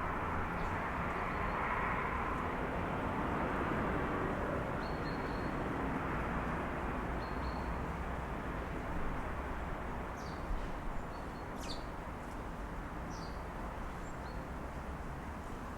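Steady city traffic noise, louder at first and then easing off, with small birds giving short high chirps several times over it, most in the second half.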